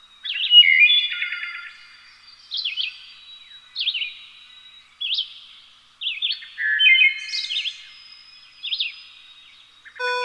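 Birds chirping and calling in short quick phrases, a new burst every second or two. Music begins right at the very end.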